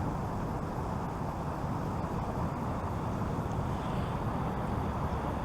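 Steady rushing noise of river water pouring over rapids and a waterfall, even and unbroken, with most of its weight low.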